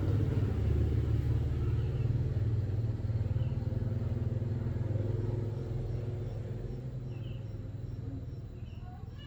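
A small motor or engine running with a steady low hum, fading gradually over the last few seconds.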